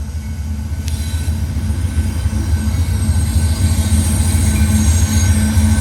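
Diesel-led freight train passing close by: a steady low locomotive engine rumble that grows louder, with wheel and rail noise.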